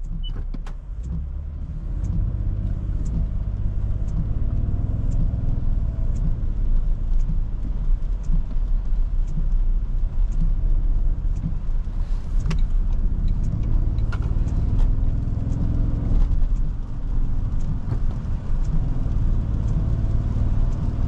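Cabin noise of a 2023 Toyota Tundra 1794 pickup driving on wet roads: a steady low rumble of road and tyres, with the engine note rising and falling a couple of times as it speeds up and eases off, and a scatter of faint ticks.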